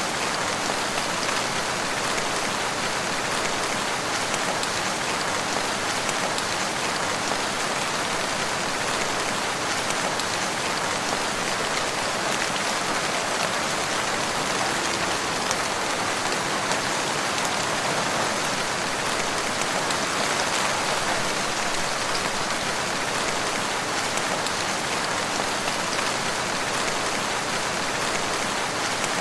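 Steady, even rainfall, with drops pattering on surfaces.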